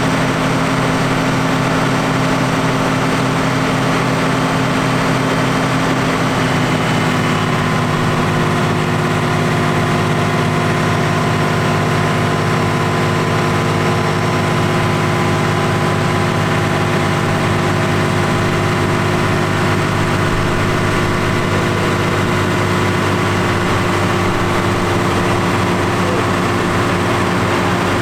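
Valtra T175 tractor engine running steadily during a dynamometer test. Its engine note changes about six seconds in, then holds steady.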